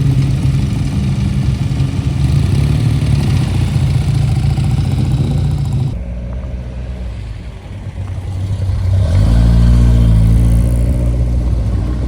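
Motor vehicle engines running. The sound changes abruptly about halfway through, then another engine grows louder and stays loud.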